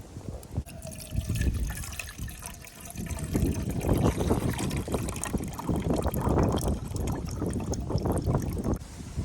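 Water being poured into a cooking pot: a light trickle at first, then a fuller, steadier stream that stops abruptly near the end.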